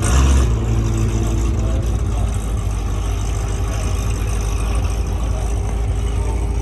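An engine idling steadily with a low hum, with a brief louder swell right at the start.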